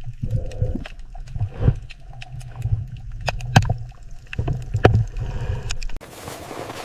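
Water sloshing and splashing in irregular heavy surges, with scattered sharp knocks and clicks.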